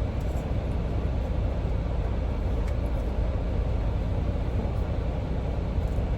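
Steady low rumble of a semi truck heard from inside the cab.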